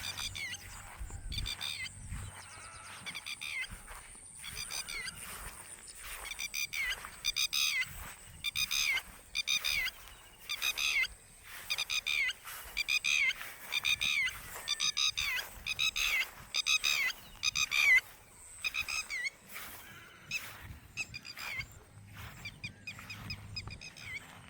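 A bird calling over and over in quick runs of short, pitched calls, about one run a second. The calls are fainter at first, loudest through the middle, and fade near the end.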